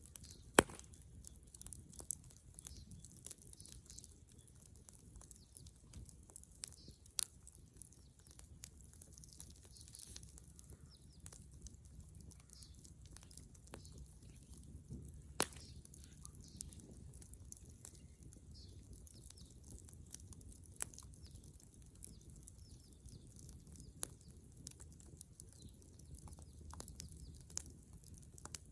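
Dead-wood bonfire burning: a steady crackle of small snaps under a low steady rumble, with a few sharp, loud pops scattered through, the loudest about half a second in and again about fifteen seconds in.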